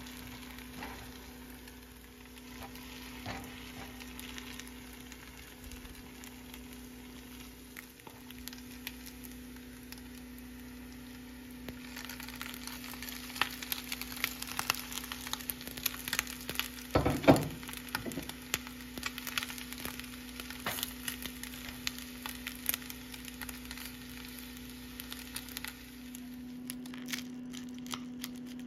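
Oats, celery and onion frying in butter in a frying pan, sizzling with a steady hiss and crackling that grows busier a little under halfway through, over a steady low hum. A loud thump comes a little past halfway.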